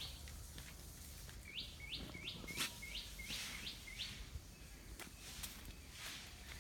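A small bird calling a quick run of about seven short, downward-sweeping chirps, roughly three a second, with a few faint knocks under it.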